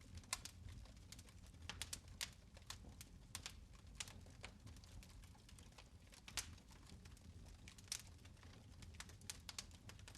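Fire crackling in a fireplace: irregular small snaps and pops, a few each second, over a low steady rumble of the flames.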